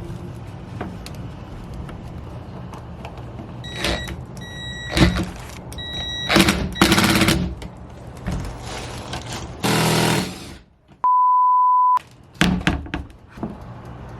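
Knocks and thunks of hand work on a wooden door, with a few short high beeps. About eleven seconds in comes a one-second censor bleep, a single pure tone in dead silence.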